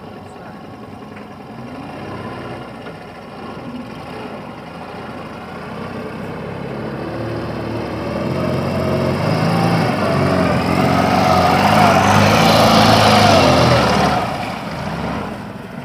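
The Ural engine of a homemade all-terrain vehicle running and revving harder and harder under load while the vehicle is in a hole in the river. It rises to its loudest about twelve seconds in, then drops back near the end.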